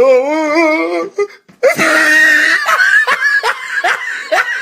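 Loud laughter, wavering in pitch. It breaks off briefly about a second in, then starts up again.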